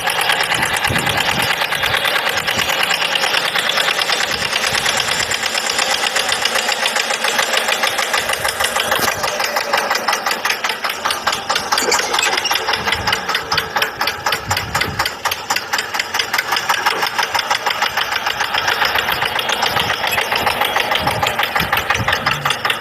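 Tractor engine running steadily with a fast, even chugging pulse, thin-sounding with little bass.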